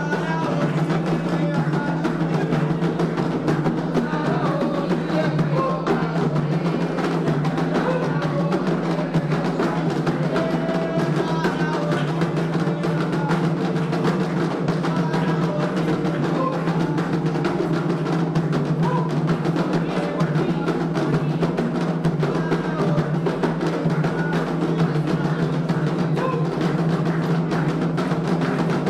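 Candomblé atabaque hand drums playing a continuous, dense ritual rhythm without a break.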